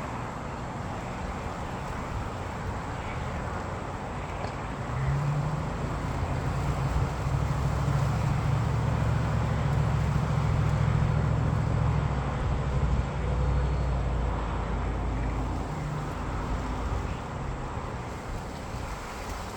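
Road vehicle engine and traffic noise, with a low engine hum that swells about five seconds in and eases off again after about sixteen seconds.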